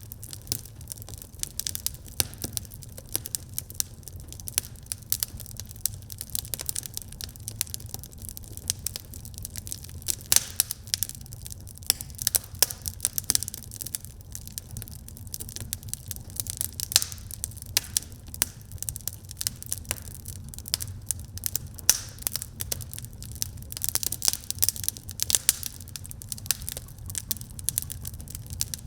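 Wood fire burning in a fireplace, crackling and popping steadily with many sharp irregular snaps over a low rumble of the flames.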